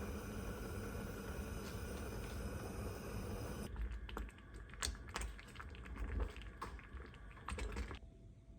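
Blender motor running steadily, grinding rice flour and brown rice to a finer powder for baby food, then cutting off abruptly about three and a half seconds in. A run of irregular light clicks and knocks follows.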